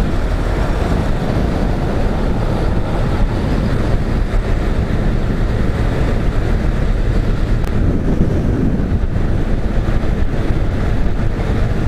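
Wind rushing over the microphone, mixed with a motorcycle's engine and road noise at steady highway speed.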